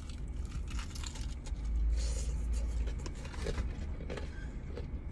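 Steady low hum of a car idling, heard inside the cabin, with a deeper rumble swelling about two seconds in. Faint clicks and rustles of chewing fried chicken and handling a cardboard food box run over it.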